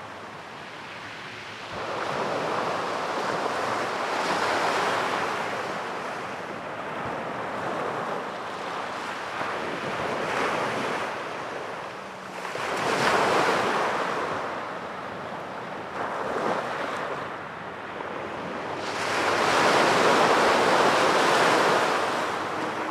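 Ocean waves breaking on a sandy beach, a steady wash of surf that swells with each wave about every six to eight seconds.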